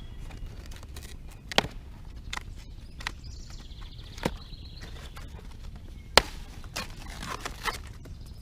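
Scooter parts and packaging being handled during an unboxing: a handful of sharp, separate knocks and clicks, the loudest about six seconds in, over a low steady hum.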